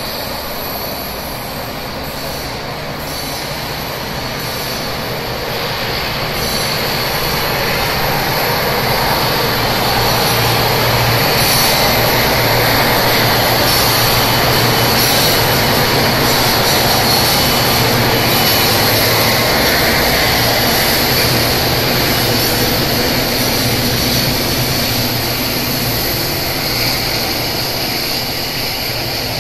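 Four diesel locomotives (SSR C504, C507, C505 and CRL BRM001) passing with their engines running, loudest about halfway through as they go by, followed by empty coal hopper wagons rolling past. A steady high-pitched wheel squeal runs along with the rumble.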